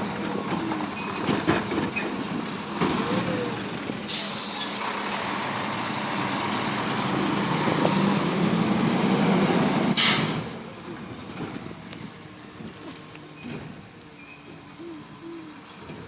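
Garbage truck at work: its engine runs under clanking, with a short hiss about four seconds in. The noise builds, then a sharp, loud hiss of its air brakes comes about ten seconds in, and the truck goes quieter after it.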